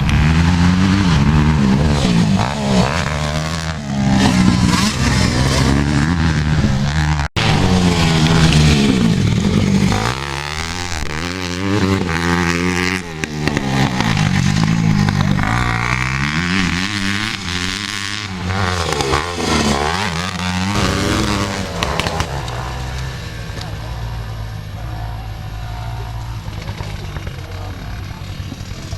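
Motocross dirt bike engines revving, the pitch rising and falling again and again as the bikes accelerate and shut off on the track. There is a brief dropout about seven seconds in. The sound turns quieter and steadier near the end.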